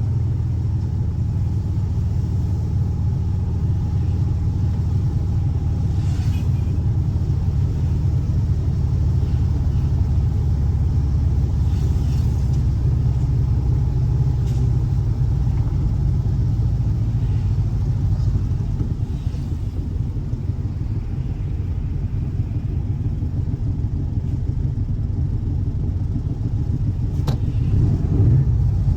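Air-cooled 1584cc flat-four boxer engine of a Volkswagen Fusca (Beetle) running with a steady, deep rumble that eases slightly about two-thirds of the way through. A single sharp click comes near the end.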